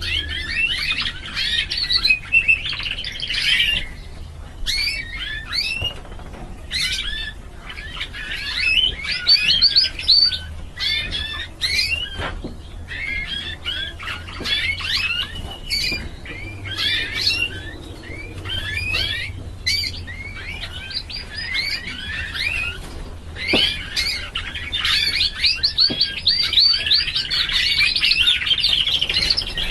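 Domestic canary song: long phrases of rapid trills and chirps, broken by short pauses, over a steady low hum.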